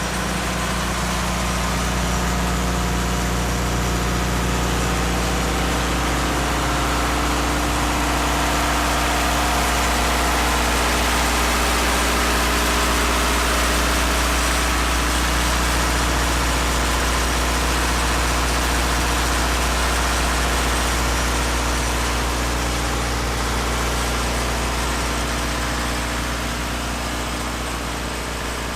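Schwarze M6 Avalanche street sweeper running steadily, a low engine drone under a broad hiss, swelling slightly in the middle and easing off again.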